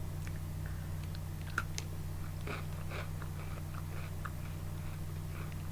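Chewing a crunchy chocolate cookie candy: faint, scattered crunches and mouth clicks over a steady low hum.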